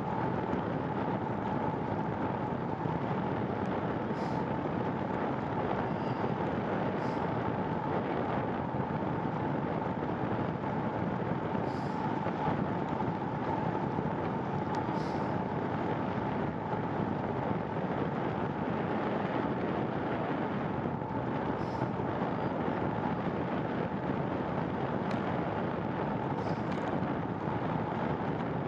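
Steady rushing noise of a bicycle ride in the rain, with a faint steady whine that fades out a few seconds before the end and a few faint ticks.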